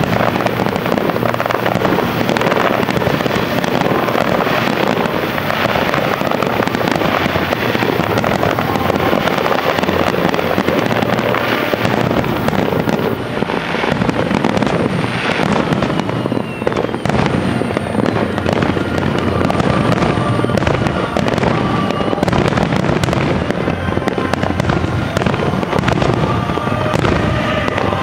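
Aerial firework shells bursting one after another in a dense, continuous barrage of bangs.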